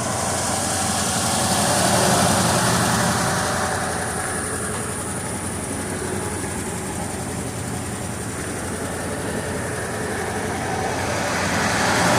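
Motor vehicle engine running steadily, with road and engine noise that swells and eases twice.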